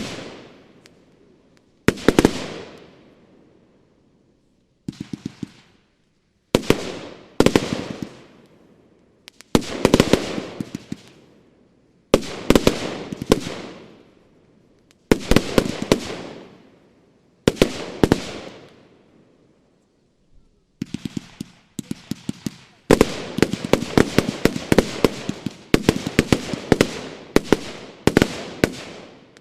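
Bonfireworks Prisma Willow, a 100-shot 30 mm consumer firework battery, firing: small groups of sharp bangs every two to three seconds, each dying away in an echoing tail. In the last third the shots come rapidly one after another.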